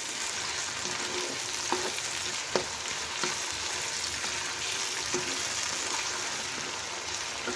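Diced potatoes, tomato and green chillies sizzling steadily in hot oil in a non-stick wok, stirred with a spatula that scrapes and taps the pan now and then. The tomato is being fried until it softens.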